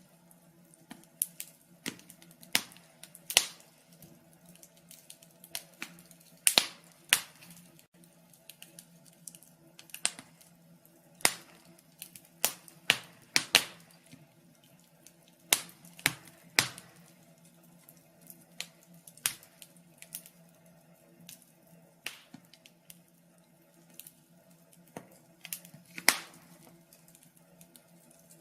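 Wood fire crackling in a fireplace: irregular sharp pops and snaps, several a second at busy moments, over a faint steady hum.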